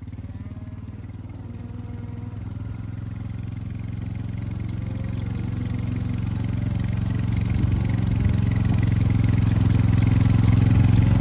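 Small engine running steadily and growing gradually louder, with a few faint cattle bawls in the first half.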